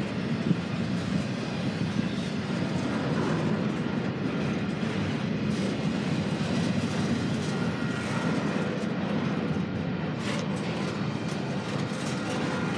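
Double-stack container train's cars rolling steadily past, with the continuous noise of steel wheels on rail and a few sharp clicks near the end.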